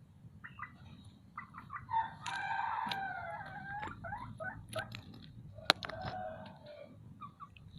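Native village chickens calling: short clucks throughout, and a rooster crow of about two seconds beginning about two seconds in, followed by a shorter, lower call near the end. A sharp click is heard just before six seconds.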